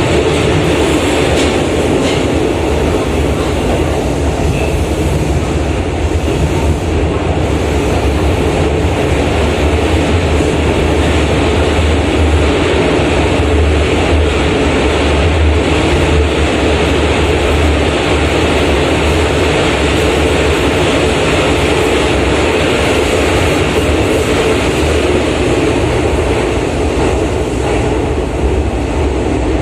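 Steady running noise heard inside a Keisei 3700 series electric commuter car in motion: an even rumble of the wheels on the rails, with no distinct clicks or changes in speed.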